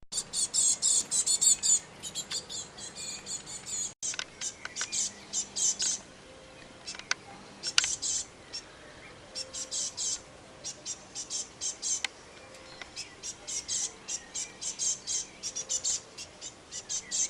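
Small birds chirping in rapid runs of short, high-pitched notes, several a second, with brief lulls in between.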